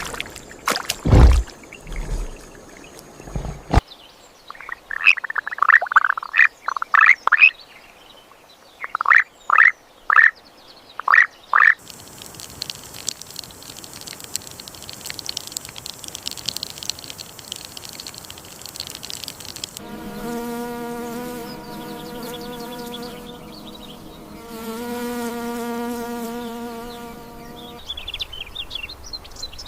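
A run of animal sound samples: clusters of short chirping calls, then a steady insect-like hiss, then two long even buzzes of a flying insect such as a fly or bee, and bird chirps near the end.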